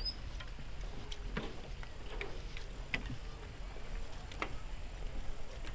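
Outdoor ambience: a steady low rumble with scattered, irregularly spaced light ticks and taps.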